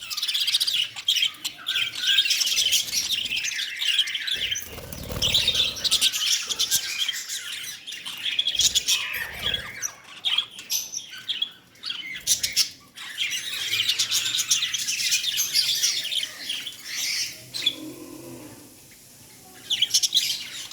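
Pet lovebirds chattering: rapid, high chirps and squawks in busy overlapping runs, easing off briefly near the end. A few brief low thumps sound among the calls, around five and nine seconds in.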